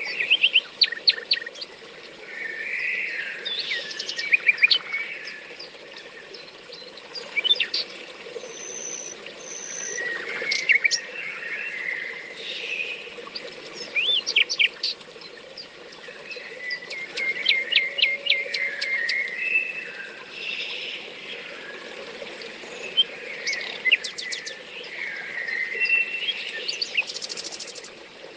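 Several songbirds singing and calling, with phrases of rapid trills and chirps every few seconds and a few high thin whistles, over a steady low rushing background.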